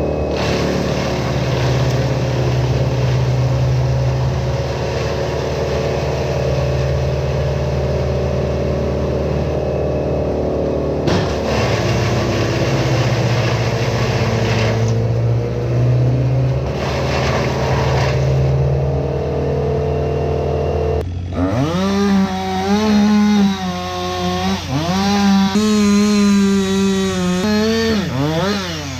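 Engine of a 15XP brush chipper running steadily, then its speed dipping and recovering several times over the last few seconds.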